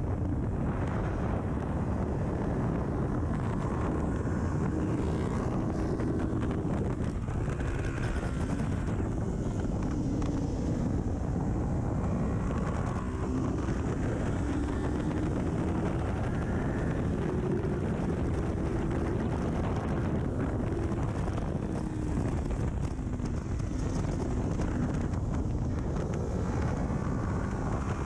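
Kawasaki Ninja 400 parallel-twin engine through an aftermarket full exhaust, revving hard on track, its pitch rising and falling with throttle and gear changes, under heavy wind noise on the microphone.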